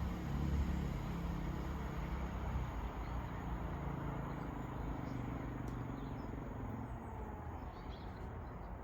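Train running past, a low rumble with a steady engine note that slowly fades away.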